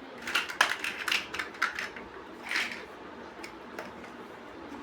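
Plastic building bricks clicking and clattering as they are handled. A quick run of clicks fills the first two seconds, another comes about two and a half seconds in, then a few light ticks.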